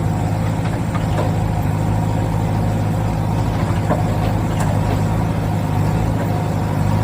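Steady running of a heavy diesel engine, like a backhoe loader's, with a few faint clicks over it.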